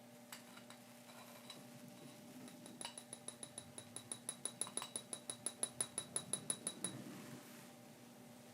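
A quick, even run of small ringing metallic clicks, about six a second, growing louder and then stopping abruptly near the end, with a few scattered clicks before it starts.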